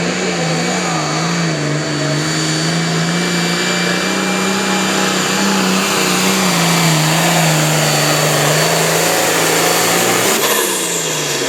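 Competition pulling tractor's turbocharged diesel engine running hard at high revs under load, its pitch wavering up and down as engine speed rises and falls. About ten seconds in, the sound changes abruptly and the pitch drops.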